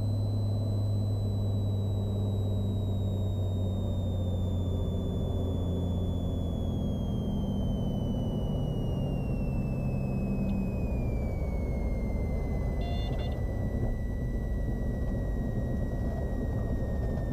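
Cessna Skylane's piston engine and propeller running at low power during the landing rollout, a steady drone. A thin high whine falls slowly in pitch throughout.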